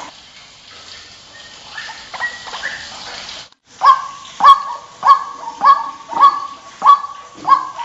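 White-breasted waterhen calling: a few faint notes, then after a brief break a loud run of repeated harsh calls, a little over half a second apart.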